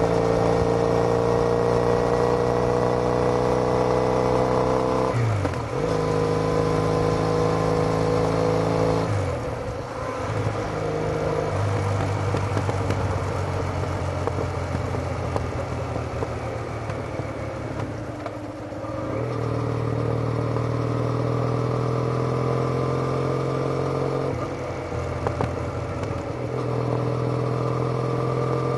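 Triumph Bonneville parallel-twin engine running through TOGA aftermarket silencers, heard from on board while riding. The exhaust note climbs slowly in pitch under load, with several brief dips in the note along the way.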